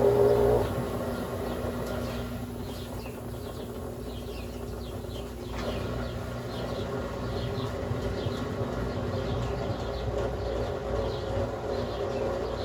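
A Brastemp Ative 11 kg washing machine's motor stops about half a second in, leaving a pause between agitation runs in the wash cycle. Only a steady low hum remains, with faint, high, short chirps from about halfway on.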